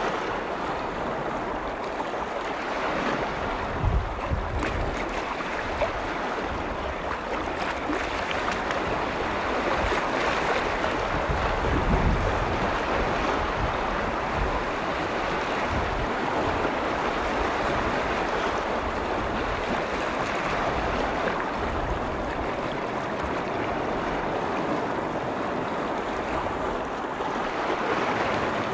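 Waves on a large freshwater lake washing onto the shore: a steady rushing wash that slowly swells and eases. Wind knocks on the microphone in a few low thumps a few seconds in.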